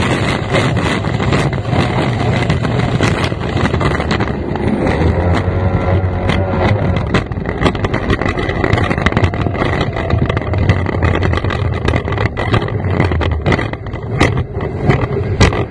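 F1 racing powerboat's outboard engine running hard, heard from the cockpit, with wind buffeting the microphone. Frequent short sharp knocks run through it, likely the hull slapping the water.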